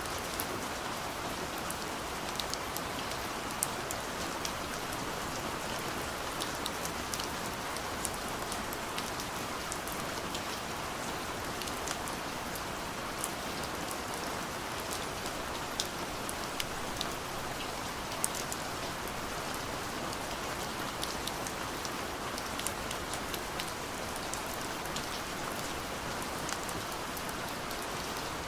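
Steady soft rain falling on a window, an even hiss with many small scattered drop ticks.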